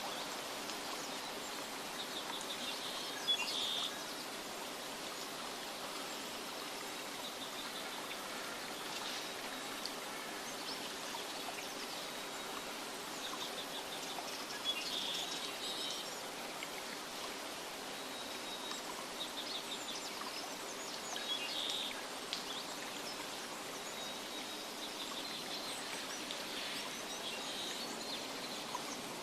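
Nature ambience for sleep: a steady rushing hiss of water, with small birds chirping in short bursts every several seconds, the loudest about 3, 15 and 21 seconds in.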